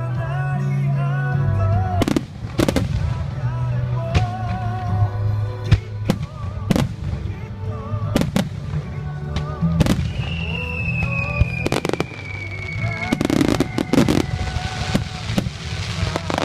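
Fireworks shells bursting every second or so over music with a steady bass line and a wavering melody. About ten seconds in a falling whistle sounds, and near the end the bursts thicken into a dense crackling wash.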